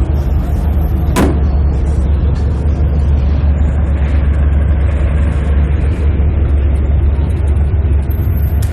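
Car engine running with a steady low rumble, and one sharp click about a second in.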